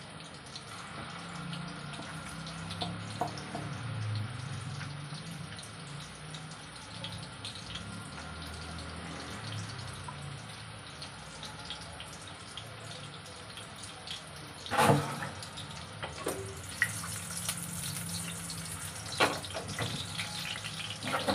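Kofta balls shallow-frying in oil on a low flame, a steady gentle sizzle with fine crackles. A sharp knock about fifteen seconds in, and a few smaller ones near the end.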